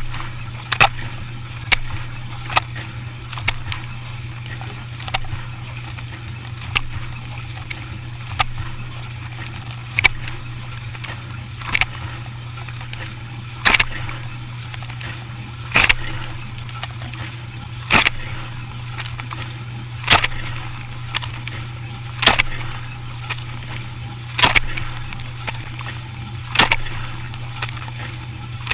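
A machine running with a steady low hum, punctuated by sharp clicks or knocks that settle into an even beat about every two seconds.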